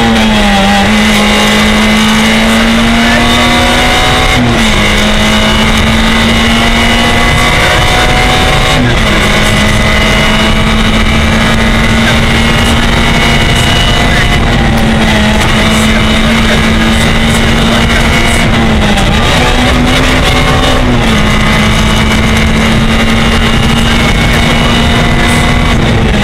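Peugeot 106 N2 rally car's four-cylinder engine running flat out at high revs, heard from inside the cabin, with its note briefly dropping and recovering about five times, over steady road and wind noise.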